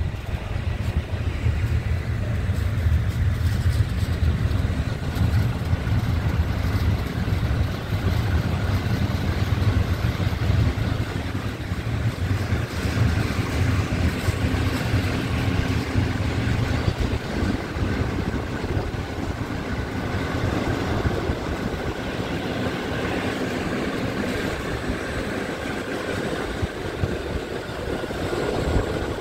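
Passenger train pulling out of a station, heard from an open carriage window: a steady, loud low rumble with a hiss of running noise over it, and faint steady tones joining in the second half.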